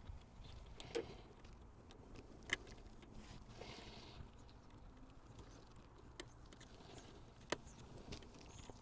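Faint, scattered clicks and light knocks from hands handling tools and parts on a motorbike, with three sharper clicks standing out.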